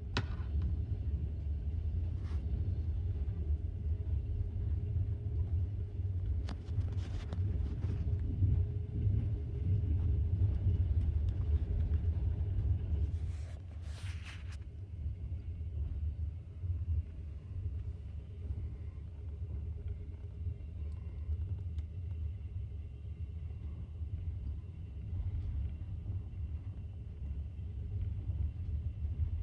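Steady low rumble of a long-distance sleeper train running at speed, heard from inside a compartment, with a few faint clicks. The rumble eases a little about halfway through.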